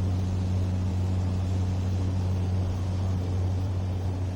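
Propeller aircraft's engines droning steadily in flight, a constant low hum over an even rush of noise.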